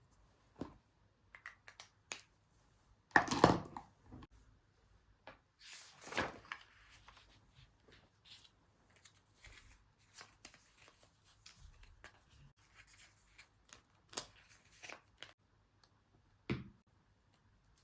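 Paper and sticker sheets being handled on a planner: scattered small taps, clicks and rustles, with two louder rustling, tearing-like sounds about three and six seconds in, the kind made by peeling stickers and turning or handling paper.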